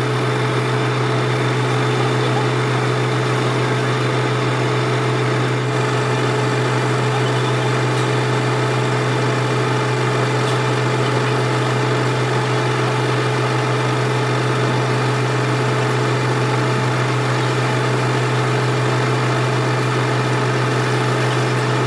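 A workshop machine's motor running steadily, with a constant low hum and an unchanging note above it.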